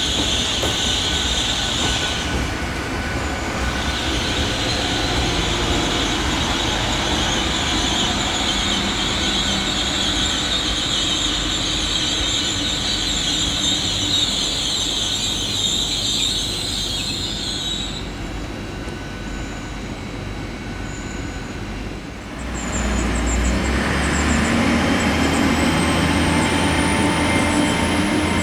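A passing train with a steady high-pitched wheel squeal that stops about two-thirds of the way through. A few seconds later a lower, louder rumble swells up.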